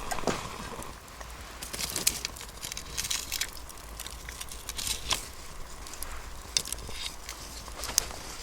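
Wood campfire crackling, with scattered sharp pops over a faint hiss.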